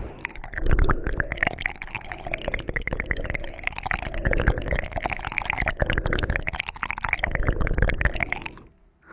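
ASMR mouth sounds close to the microphone: rapid wet tongue clicks and smacks whose tone shifts as the mouth changes shape. They stop abruptly near the end.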